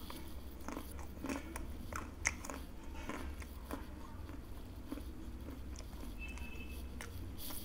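Close-up crunching and chewing of crispy fried macaroni chips: irregular sharp crunches.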